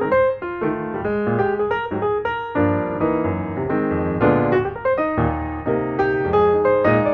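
Background piano music: notes and chords played at a steady, moderate pace.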